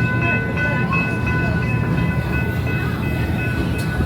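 Narrow-gauge heritage train rolling along the track: a steady low rumble with several thin, high-pitched steady tones ringing over it.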